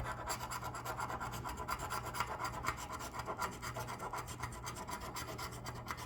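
Scratch-off lottery ticket (a $5 Cash Plus) being scratched, quick rubbing strokes scraping off the latex coating.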